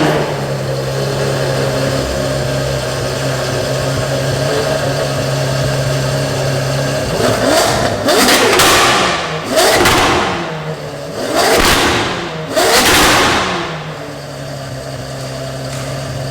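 Ferrari F12berlinetta's V12 through a full iPE aftermarket exhaust, idling steadily, then revved four times in quick free-rev blips about halfway through, each rising and falling, before dropping back to idle. It is loud, and the shop calls it "way too loud".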